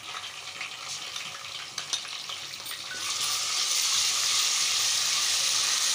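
Sliced onions and ginger-garlic paste frying in hot oil in an aluminium pot. A soft crackle with scattered pops turns into a loud, steady sizzle about three seconds in, as the paste is stirred into the oil with a wooden spoon.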